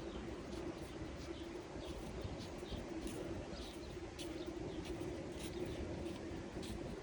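Outdoor promenade ambience: a steady low hum under a general wash of background noise, with scattered short chirps and clicks throughout.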